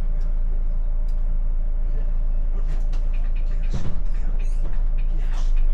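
Steady low road and engine rumble heard inside a moving car, with scattered small rattles and a brief knock almost four seconds in.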